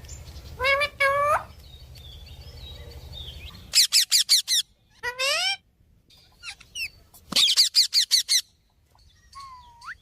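Parrot calling: two short, pitched calls about a second in, fast runs of chirps around four and seven and a half seconds, and a short rising whistle near the end. A low steady hum runs underneath for the first few seconds.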